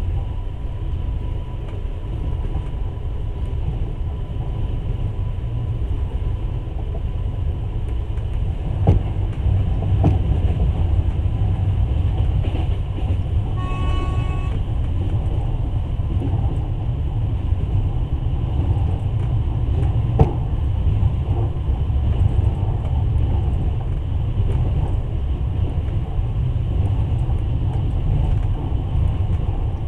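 A passenger train running, a steady low rumble of wheels on rails with a few sharp knocks. About 14 seconds in, a horn toots once, briefly.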